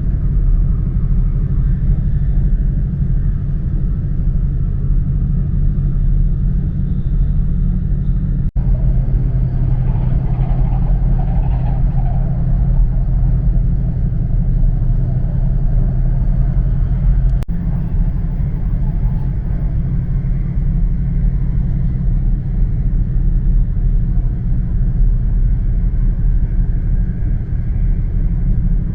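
Steady low rumble and hum of an E4 series double-decker Shinkansen running at speed, heard from inside the lower-deck cabin. The sound briefly drops out twice, about eight and seventeen seconds in.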